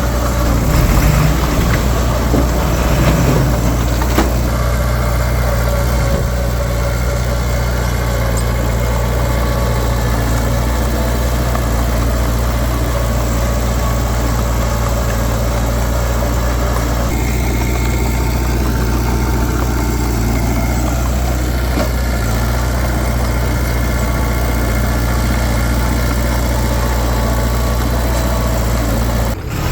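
Heavy diesel engine of earthmoving machinery running steadily, its tone shifting about 17 seconds in.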